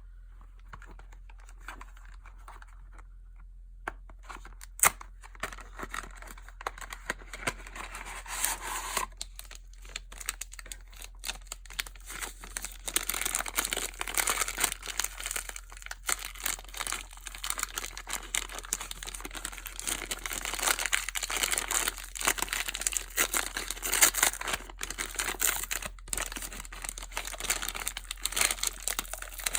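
Soap packaging being crinkled and torn open by hand: dense crackling with sharp clicks and snaps. It is faint for the first few seconds and grows busier from about four seconds in.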